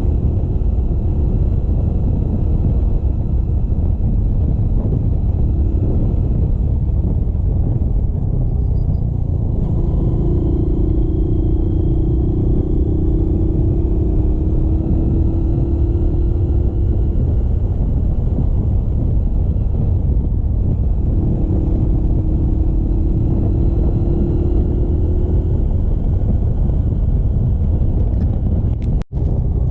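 Motorcycle riding along a road: a loud, steady rumble of wind on the microphone. The engine's tone shows through twice, drifting slightly in pitch. The sound cuts out for an instant near the end.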